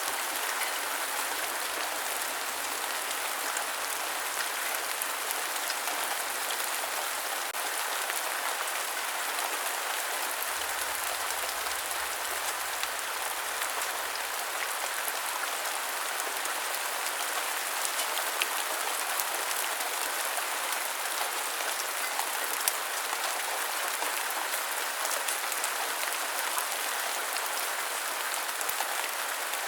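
Steady rain falling: a dense, even hiss of many drops with fine scattered ticks, light in the low end and unchanging throughout.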